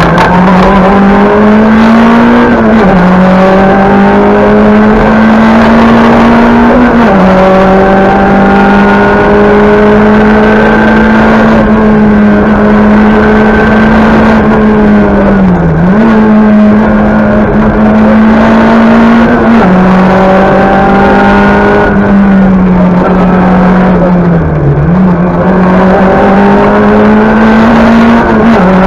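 Talbot Samba Group B rally car's four-cylinder engine at high revs, heard from inside the cockpit. Its note climbs slowly and drops sharply at upshifts about 3, 7 and 20 seconds in, with brief lifts off the throttle around 16 and 25 seconds.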